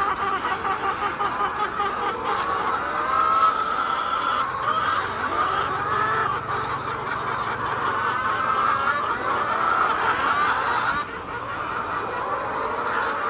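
A flock of laying hens calling and clucking together, many overlapping wavering calls at once, with a faint low hum underneath through the middle.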